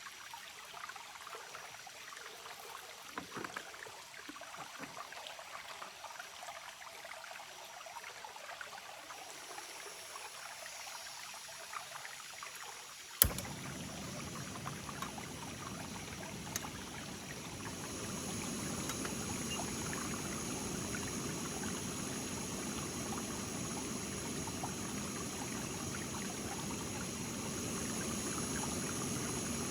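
Steady rushing of flowing water, with a sharp click about thirteen seconds in after which the rush is fuller and louder. Several steady high-pitched tones run over it in the second half.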